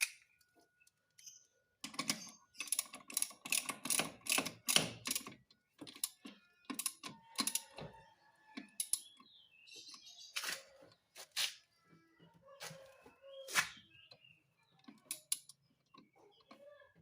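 Hand tools clicking and clattering against metal in quick irregular strokes, densest for a few seconds about two seconds in, then scattered knocks.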